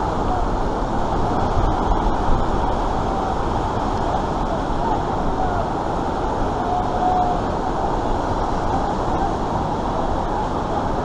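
Steady, even roar of rushing white water pouring down an artificial whitewater rapids course.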